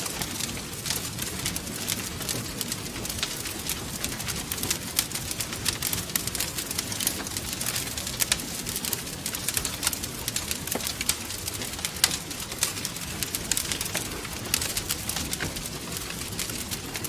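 Wood fire crackling steadily, with dense irregular pops and snaps over a low rumble of the flames.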